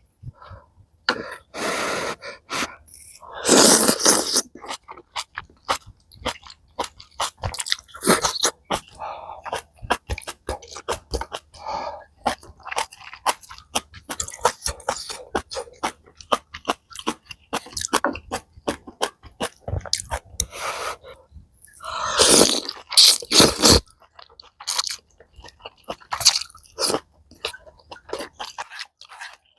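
Close-miked mukbang eating of malatang: wet chewing and mouth clicks go on throughout. A few longer, louder noisy bursts come near the start and again about two-thirds of the way in.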